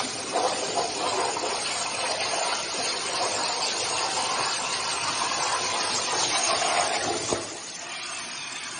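Plasma cutter cutting metal: a loud, steady hiss of the arc and compressed air. About seven seconds in it ends with a sharp snap, and a quieter hiss of air carries on after it.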